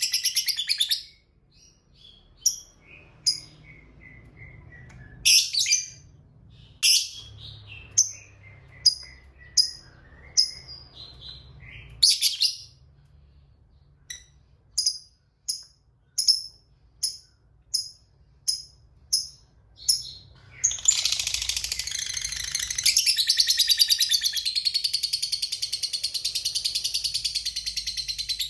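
Lovebird calling: a long rapid chatter that stops about a second in, then a run of short sharp chirps spaced under a second apart, then, about three-quarters of the way through, a long unbroken rapid chattering trill, the lovebird's long 'ngekek' call.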